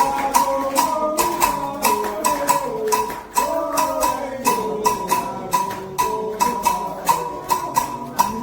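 Candomblé ritual music: rhythmic percussion struck about three times a second, each strike ringing on the same bell-like pitch, under a sung melody that steps downward.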